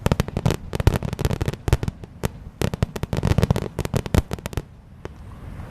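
Fireworks finale: a rapid, dense barrage of bangs and crackling reports that thins out and stops about four and a half seconds in.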